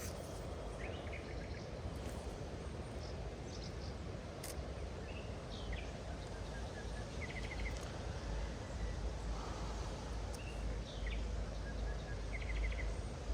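Steady rush of wild water under short bird calls: scattered chirps and two quick trills of rapid notes, one about halfway through and one near the end.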